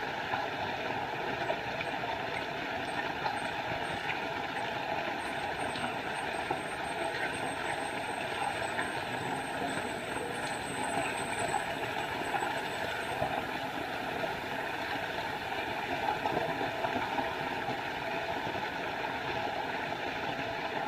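Water of a small forest waterfall falling steadily, an even, unbroken noise. A thin high-pitched tone holds for several seconds midway.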